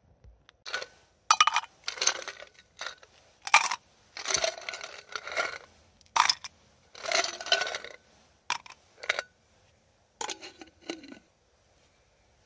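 Metal objects clinking and scraping together in a series of short, irregular bursts, some with a brief metallic ring.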